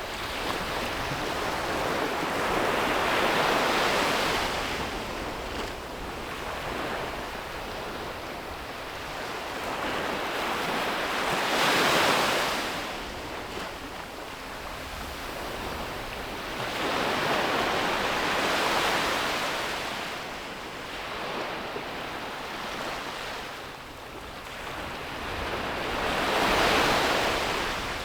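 Sea waves breaking and washing up on a beach, four surges that each swell and then fall back, the loudest crashing about twelve seconds in and again near the end.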